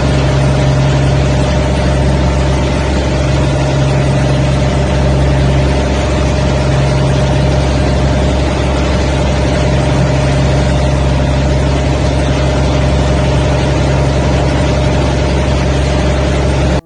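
Loud, steady engine drone with a constant hum, unchanging throughout, over a rushing noise.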